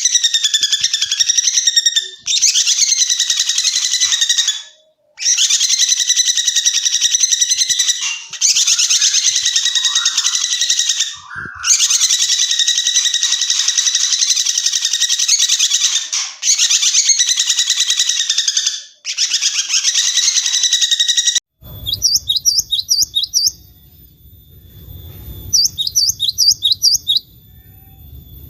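Songbird song: a long, rapid trilled song in phrases of a few seconds separated by brief breaks. About three-quarters of the way in it cuts to a different bird giving two short bursts of rapid high chipping notes over a low rumbling background.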